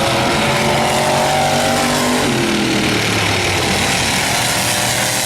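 Several demolition race cars' engines running around the track, overlapping engine notes rising and falling in pitch as the cars accelerate and lift.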